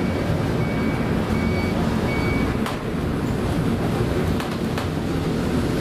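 A ship's engine and hull rumbling steadily with wind and rough-sea noise. A few short high beeps sound in the first two and a half seconds, and there are a few sharp knocks.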